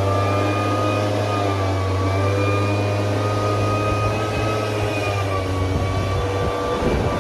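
An engine running steadily: a strong low hum with a faint whine that wavers slightly in pitch.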